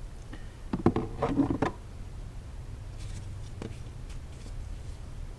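Tools and parts being handled while working in the engine bay: a short cluster of knocks about a second in, then a few faint clicks, over a steady low hum.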